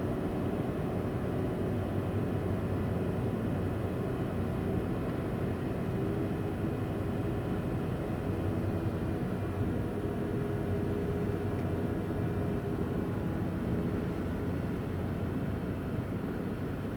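Ferry's engines and machinery running steadily: a constant low rumble with a faint steady hum over it.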